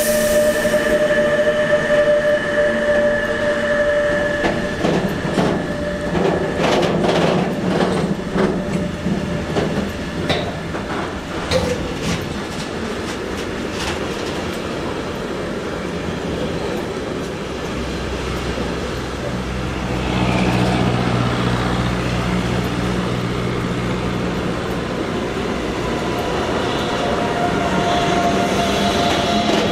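Train passing on the tracks, its wheels clicking over rail joints. A steady whine fades after about five seconds, and a lower hum comes in about two-thirds of the way through.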